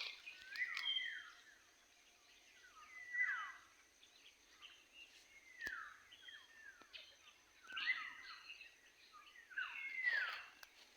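Birds calling outdoors: short downward-sliding calls repeated every two to three seconds, over a faint steady high whine.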